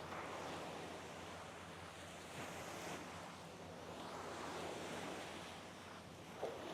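Sea waves washing onto a sandy shore, the surf noise swelling and falling back about three times.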